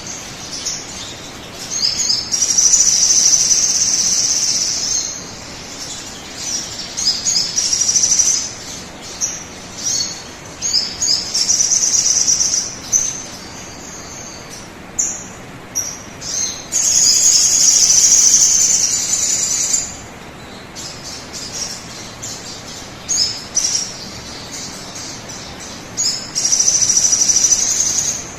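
Sogon bird singing, used as a lure call: loud, high-pitched phrases, some lasting about three seconds and others short and clipped, repeated again and again over a steady background hiss.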